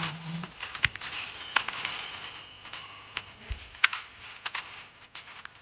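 Toy monster truck being handled, with irregular sharp clicks and rattles over a steady hiss.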